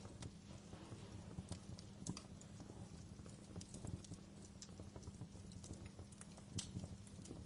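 Wood fire in a fireplace crackling: irregular sharp pops and snaps over a steady low rumble of the flames, with the strongest pops at the very start and about six and a half seconds in.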